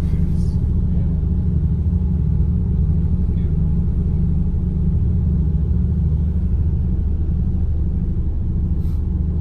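A boat's engine running steadily underway: a loud, even low drone that holds the same pitch throughout.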